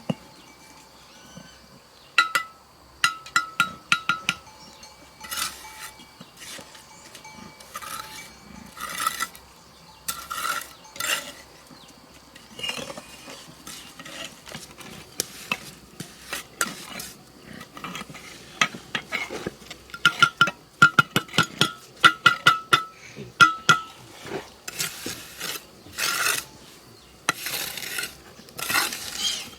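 Rapid, irregular bursts of sharp metallic clinks and knocks, some ringing briefly, as metal strikes against something hard.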